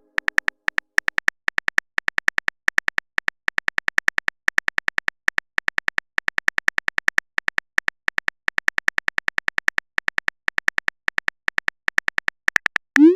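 Rapid, irregular run of short synthetic keyboard-typing clicks, the chat-app typing sound effect, about six to eight a second, ending with a short rising swoop near the end.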